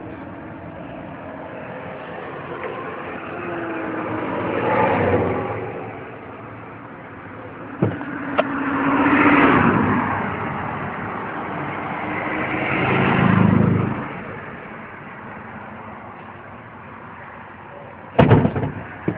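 1982 Chevrolet pickup's 350 V8 running, its engine sound swelling up and falling back three times. A few sharp clicks, and a louder cluster of sharp knocks near the end.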